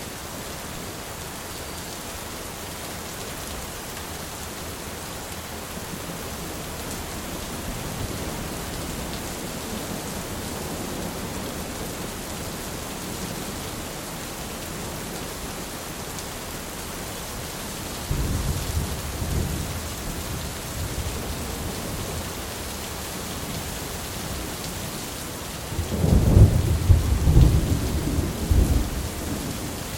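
Steady rain falling with thunder: a rumble of thunder comes in a little past halfway, and a louder, cracking thunder roll follows near the end.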